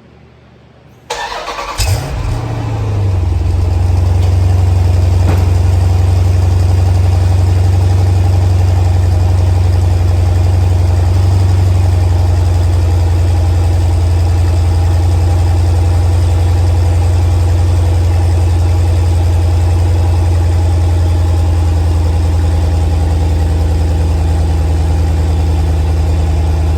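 Cold start of a 2014 Jeep Grand Cherokee SRT's 6.4-litre HEMI V8: the starter cranks briefly about a second in, the engine catches with a flare in revs, then settles into a loud, steady idle.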